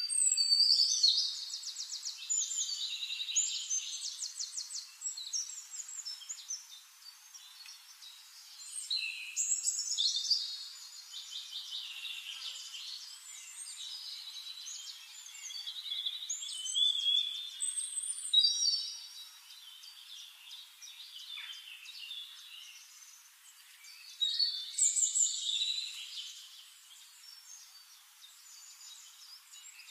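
Birds singing: rapid high-pitched chirps and trills in several louder bouts, near the start, around ten seconds in, around eighteen seconds and around twenty-five seconds, with softer chirping between.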